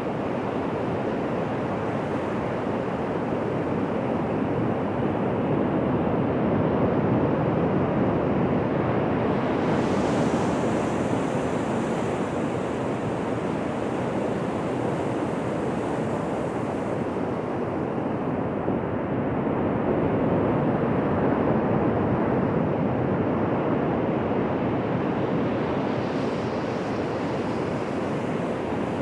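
Ocean surf on a beach: a continuous wash of waves that swells gently twice, around a quarter of the way in and again past the middle.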